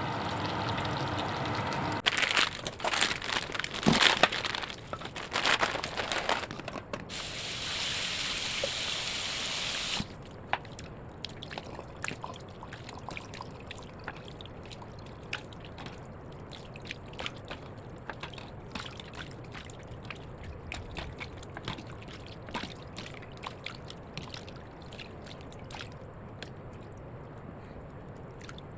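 Kitchen cooking sounds: a few seconds of clattering and handling, then a stretch of pouring or running water that cuts off suddenly about ten seconds in, followed by a long quieter stretch of faint scattered crackles.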